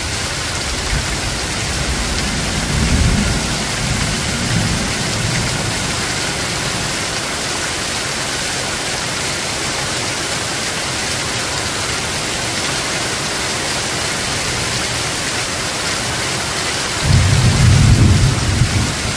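Steady rain hiss with low rolls of thunder: a rumble a few seconds in and a louder one near the end.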